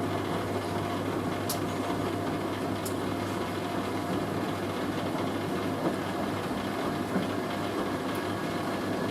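Hoover A3060 Electronic 1100 washing machine on its distribution drain: the drain pump runs with a steady hum while the drum turns to spread a heavy, waterlogged sofa throw around before the spin.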